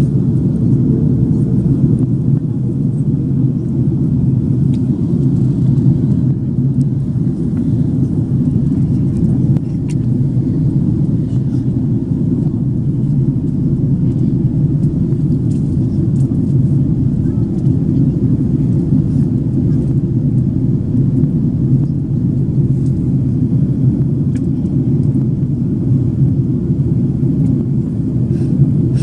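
Steady low rumble of an Airbus A330-300 in flight, engine and airflow noise heard from inside the passenger cabin.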